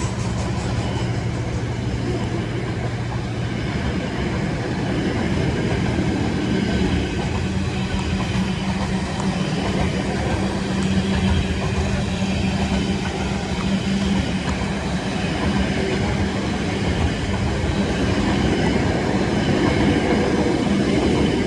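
A Class 66 diesel freight locomotive and its train of wagons passing at speed, a steady loud rumble of engine and wheels on the rails that holds throughout.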